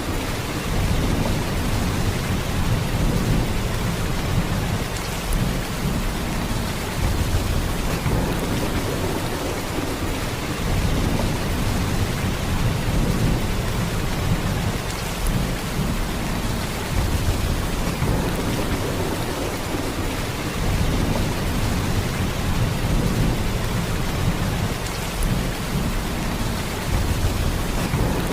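Heavy rain falling in a steady downpour, a dense even hiss, with a deep low rumble underneath that swells and eases every few seconds.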